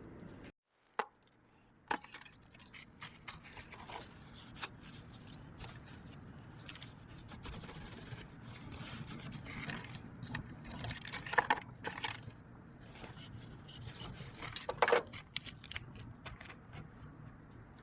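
Scattered clicks, clinks and scrapes of hard objects being handled, loudest in clusters about two-thirds of the way through, over a low steady background hum.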